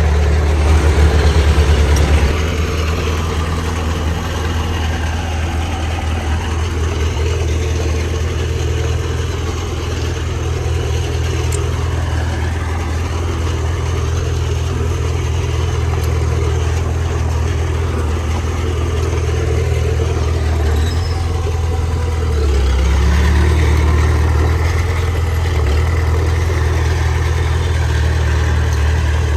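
Heavy diesel engine of earthmoving machinery running steadily with a deep drone. It swells briefly near the start and again about three-quarters of the way through.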